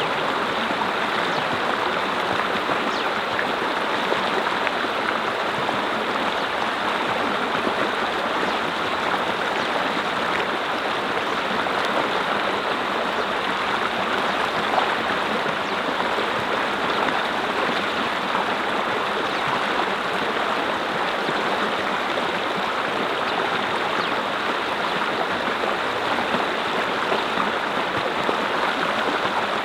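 Mountain brook flowing over rocks: a steady, even rush and babble of running water.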